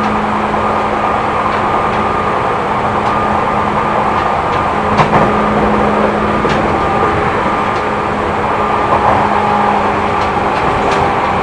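Seibu New 2000 series electric train running at speed, heard from inside the carriage: a steady rumble of wheels on rail under an even hum, with a few light clicks.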